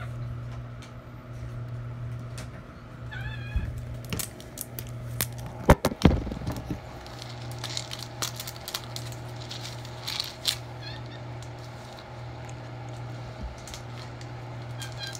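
A pet monkey giving a short run of high, squeaky chirps about three seconds in, with a few fainter squeaks later, over a steady low hum. A few loud, sharp knocks come about six seconds in.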